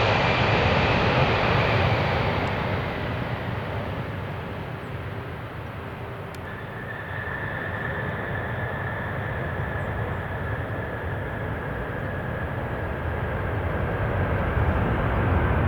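Boeing 747 jet engines during a landing, a loud steady roar with a high whine that comes in about six seconds in, the roar easing and then building again toward the end.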